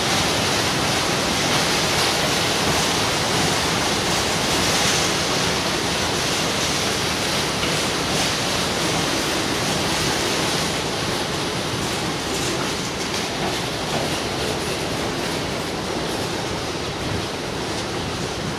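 A freight train's flat wagons rolling past: a steady rush of wheels on rail that grows a little quieter toward the end.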